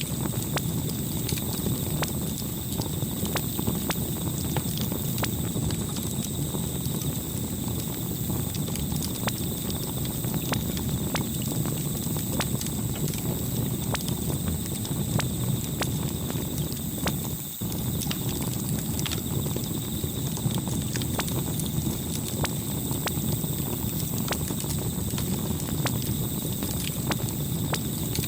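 Campfire burning: a steady low rumble of flames with frequent, irregular sharp crackles and pops of burning wood. The sound briefly drops away about two-thirds of the way through, then carries on as before.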